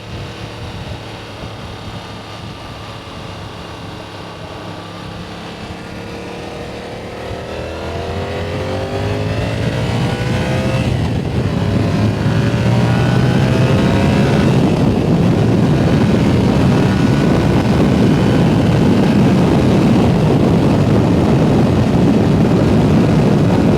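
Yamaha R7's 689 cc parallel-twin engine accelerating onto a highway, its pitch rising twice as it pulls through the gears. Wind rush over the microphone builds with the speed and covers the engine for the second half.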